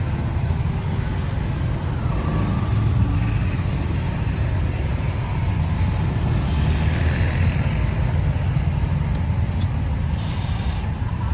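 Road traffic noise: a steady low rumble of vehicle engines and tyres on the road.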